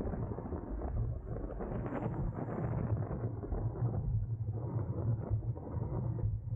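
Wind buffeting the microphone of a camera on a road bike ridden at race speed: a steady low rumble.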